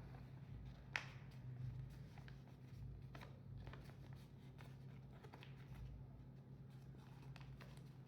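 Faint paper being handled and folded: soft rustles and light taps, with a sharper click about a second in, over a low steady hum.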